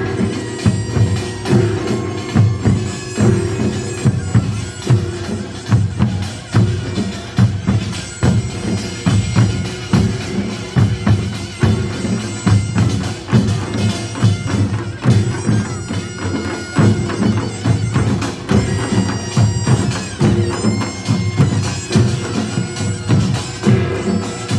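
Gyeongsang-do nongak farmers' band playing: drums and gongs beat a dense, driving rhythm, and a loud, nasal double-reed shawm (taepyeongso) holds the melody above them.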